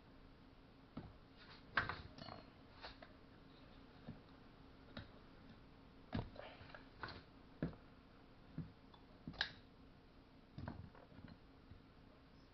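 Scattered light clicks and knocks, about ten spread irregularly, of metal tools and small chainsaw parts being handled during reassembly of a STIHL MS-180.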